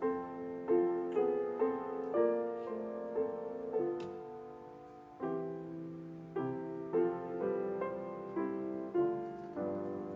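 Solo piano playing a slow, gentle piece, notes struck one after another and left to ring.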